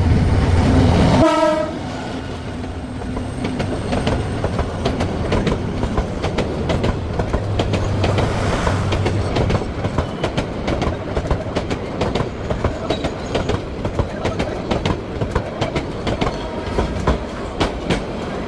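A train horn sounds and cuts off about a second in. Then come the steady clacking of a passenger train's wheels over the rail joints and its carriages rattling as it rolls into the station.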